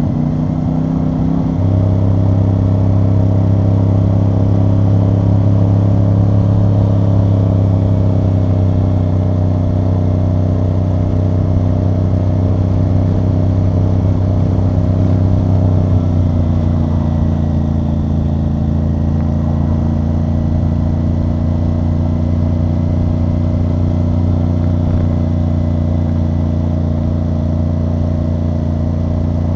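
CFMoto CL-C 450 parallel-twin engine and exhaust running at a steady cruise under way. The engine note rises slightly about a second and a half in, drops lower about halfway through, and then holds steady.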